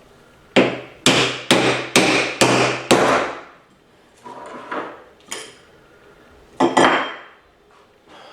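Hammer tapping a part into a Ford 5R55S automatic transmission during reassembly: six sharp strikes about two a second, then a few lighter taps, and two more hard blows close together near the end.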